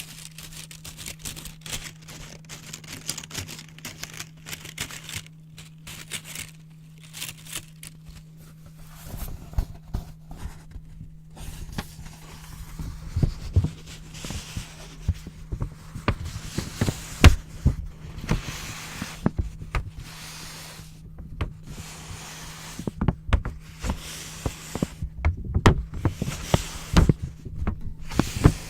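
Close-miked paper crinkling, rustling and scissor snips. From about nine seconds in, with a fresh white sheet, they come as sharper clicks and low thumps of the paper being handled and cut.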